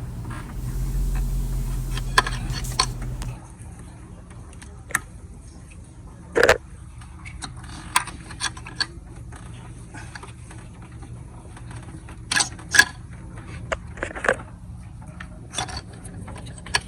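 Scattered sharp clicks, taps and light scrapes of a small screwdriver prying the lock tab on the throttle body's plastic electrical connector and unplugging it. A steady low hum stops about three seconds in.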